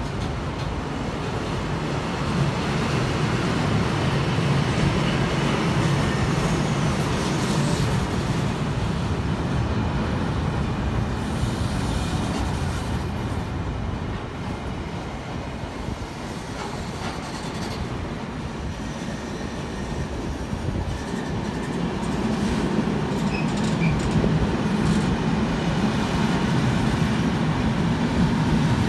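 Car-carrier freight wagons rolling past on the rails, a steady rumble of wheels on track that eases a little midway and builds again near the end.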